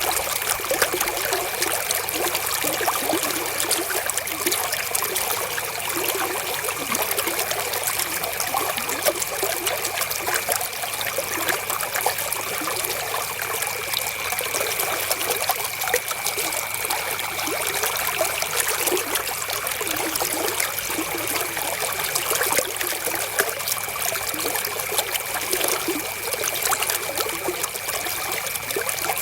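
River water flowing and trickling steadily, a continuous splashy rush with no pauses.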